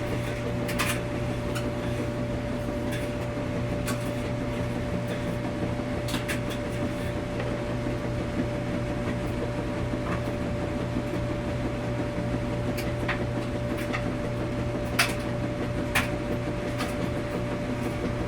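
Washing machine running with a steady low hum and a constant tone above it, over a haze of mechanical noise. Scattered sharp clicks and knocks, the loudest two about fifteen and sixteen seconds in.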